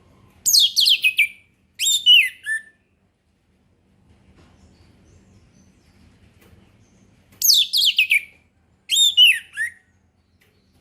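Orange-headed thrush singing in the 'ngeplong' style: two loud song phrases about seven seconds apart. Each phrase is a quick run of high notes sliding down in pitch, followed by a few lower slurred whistles.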